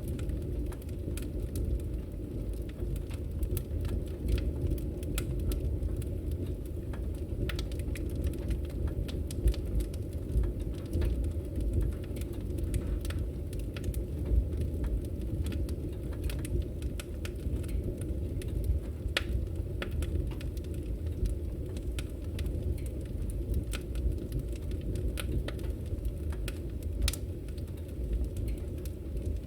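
Wood fire burning with a steady low rush and frequent small crackles and pops from the burning wood. A couple of pops stand out louder, about a third and halfway through.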